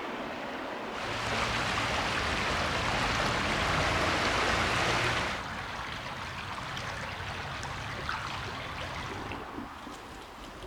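Running spring water, a steady rushing splash. It grows louder and brighter about a second in, then drops back to a softer flow about halfway through.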